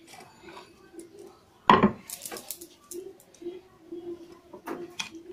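Kitchen utensils and dishes clattering. A loud knock with a short ring about two seconds in, like a utensil set down hard, is followed by a few lighter clinks and taps, with another sharp tap near the end.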